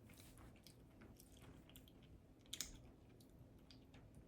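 Faint close-up chewing of food with soft wet mouth clicks, one a little louder about two and a half seconds in.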